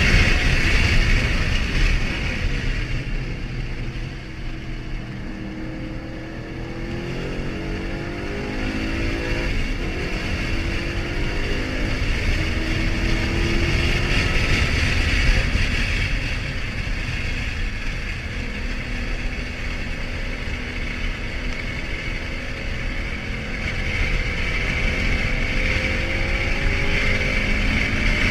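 A 2013 Ford Mustang GT's V8 engine running with steady road and wind noise, its pitch falling and rising again as it slows and picks up speed.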